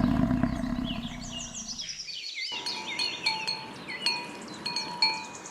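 Birds chirping over a low rumble that fades, then about two and a half seconds in the sound cuts to small bells ringing again and again, with the chirping going on above them.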